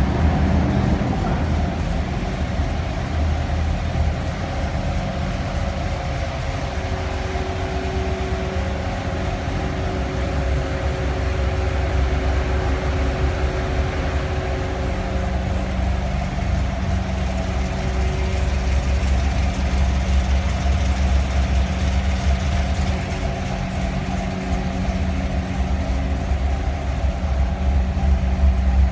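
Chevrolet Camaro SS V8 idling steadily with the rough, uneven idle of an aggressive aftermarket camshaft.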